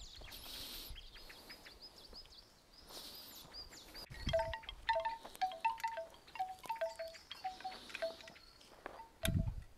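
Small metal bells or chimes clinking over and over, short ringing notes on two alternating pitches, with a couple of soft low thumps.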